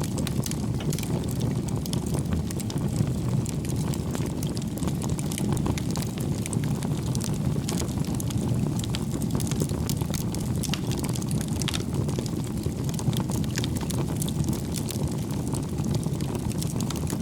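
Firewood burning in a fireplace: a steady low rumble of flames with frequent small crackles and pops.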